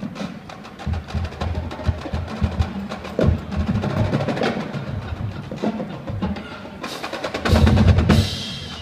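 School band's percussion section playing rapid snare and bass drum strokes and rolls, swelling to a loud low drum roll near the end.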